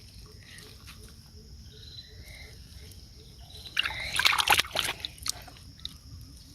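Shallow water sloshing and splashing, quiet at first, then a burst of loud splashing lasting about a second a little past halfway, followed by a couple of single sharp splashes.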